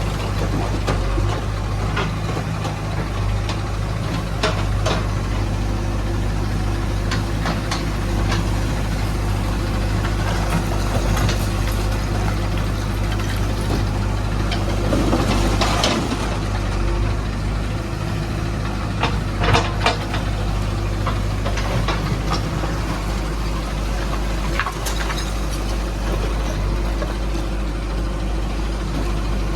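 Heavy diesel engine of the loading machinery running steadily, with scattered sharp knocks and clatter over it, the most marked about fifteen and nineteen seconds in.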